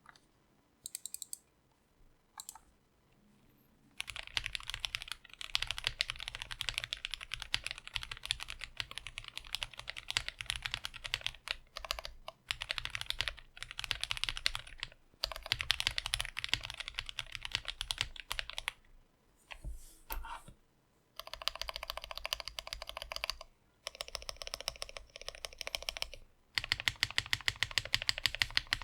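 Sam's Studio S58M Plus 60% mechanical keyboard with lubed and filmed FFFF linear switches on a modular FR4 plate and GMK ABS keycaps, typed on quickly. After a few scattered clicks, steady typing starts about four seconds in, with short pauses. From about twenty seconds in, the keystrokes come in fast, even runs.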